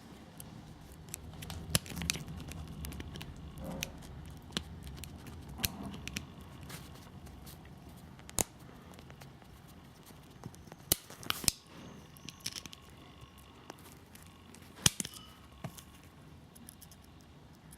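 Scattered sharp clicks and taps of small metal motor parts and hand tools being handled while a brushless RC motor is taken apart, with a few louder snaps in the second half.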